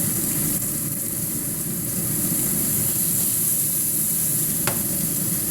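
Shrimp and squid sizzling in hot oil in a stir-fry pan, a steady hiss over a constant low rushing. One sharp click comes near the end.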